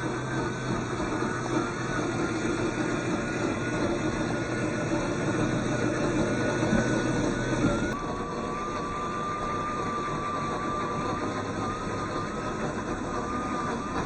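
Radio-controlled scale Chevy Blazer K5 truck driving, its motor and gearbox giving a thin steady whine over a continuous rumble. About eight seconds in the whine drops in pitch and the rumble gets quieter as the truck slows.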